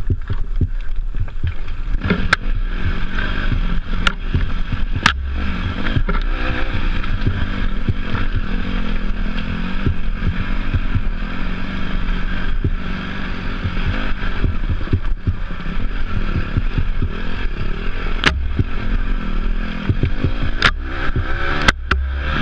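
Off-road motorcycle engine running with its pitch wavering up and down, under wind rush on the microphone. Sharp knocks and clatters come several times, about two, four, five, eighteen and twenty-one seconds in.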